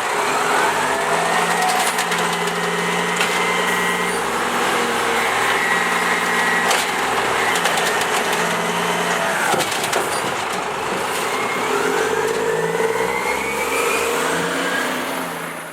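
Automated side-loader garbage truck's engine revving up and down in steps, with a whine that rises and falls over it. The sound fades out at the very end.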